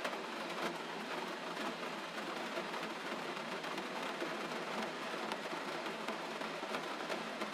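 Gentle, steady rain: an even hiss dotted with many small, quick ticks of drops.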